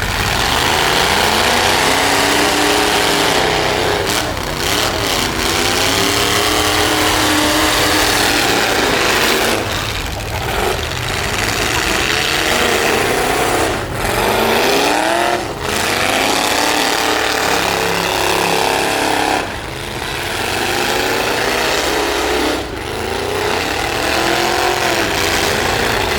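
Demolition derby trucks' engines revving hard, the pitch climbing and dropping again and again, with several brief cuts where the throttle comes off.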